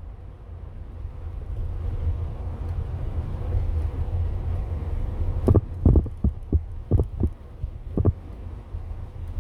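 Camper van driving, heard from inside: a steady low rumble that builds over the first few seconds, then a run of six or so short thumps between about five and a half and eight seconds in.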